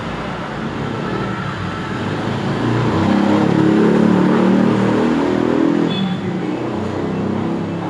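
A motor vehicle's engine over steady road noise, growing louder about three seconds in and fading again after about six seconds, as a vehicle passing by would.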